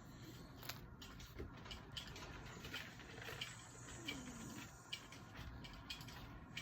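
Faint rustling and small clicks from a dog being cuddled, with one brief soft falling whine about four seconds in.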